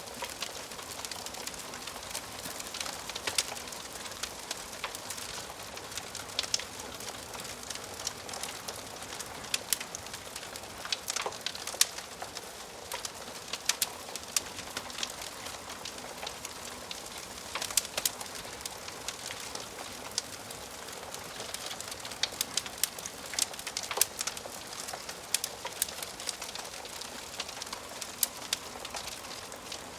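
Wood fire burning in a fireplace: a steady soft hiss with frequent irregular crackles and sharp pops of burning wood.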